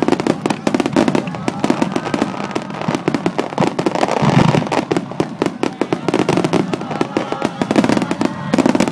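A rapid barrage of fireworks at close range, a star mine, with dozens of sharp bangs and crackles in quick succession and a louder, deeper burst about halfway through.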